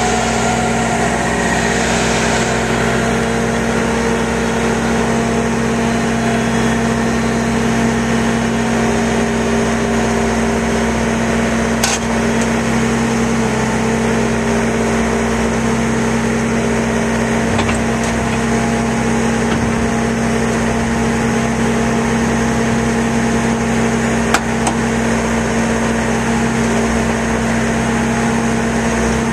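An engine idling steadily at an even, unchanging pitch, with two short sharp clicks, one about twelve seconds in and one near the end.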